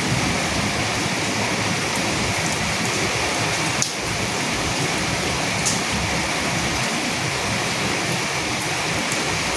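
Steady rain falling, an even hiss with a few sharper drops ticking out above it, the clearest about four seconds in.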